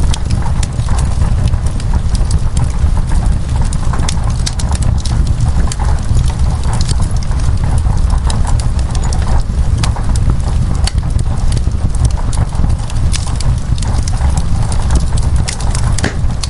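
Wood fire crackling in a fireplace, with many sharp irregular pops over a steady low rumble.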